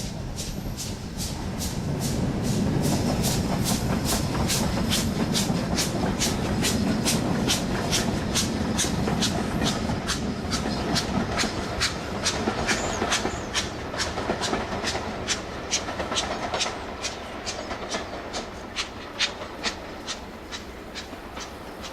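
A diesel-hauled heritage train passing, its wheels clicking in a steady rhythm over the rail joints. The rumble is loudest a few seconds in and then eases away, while the clicks carry on and grow sparser near the end.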